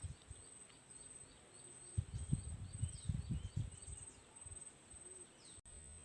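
Forest ambience: a steady, high, pulsing insect drone with repeated faint chirping calls, and a run of low thumps and rustles about two to four seconds in.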